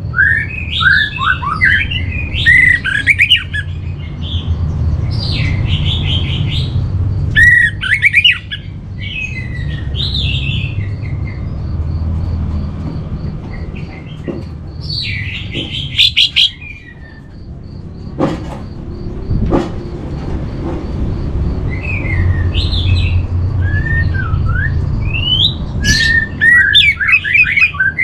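Orange-headed thrush singing, with bursts of quick, varied whistled phrases separated by short pauses, over a steady low hum.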